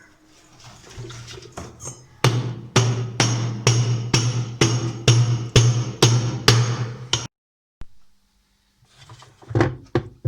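About a dozen hammer blows on a washing machine's gearbox, a little over two a second, striking metal to work the gearbox loose. The blows stop suddenly; a few more knocks follow near the end.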